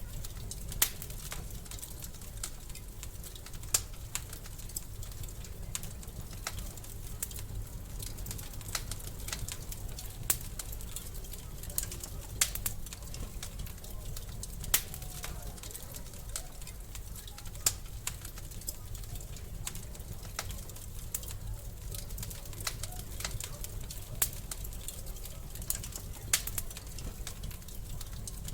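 Wood fire in a fireplace crackling: irregular sharp pops and snaps, a louder one every second or two, over a low steady rumble.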